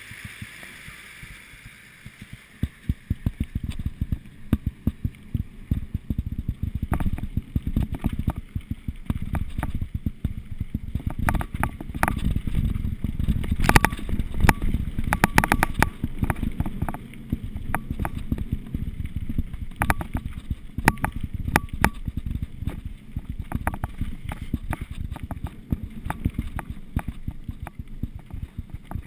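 Mountain bike rolling downhill over rough ground: a steady low rumble with constant rattling and clattering knocks from the bike, heaviest in the middle stretch.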